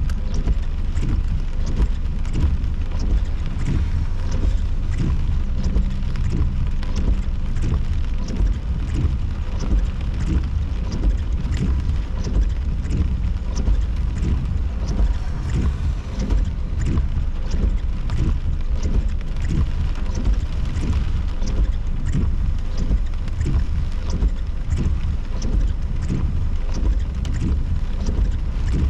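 Severe thunderstorm wind and rain hitting a car, heard from inside: a loud, steady low rumble with constant sharp taps of rain striking the body and glass.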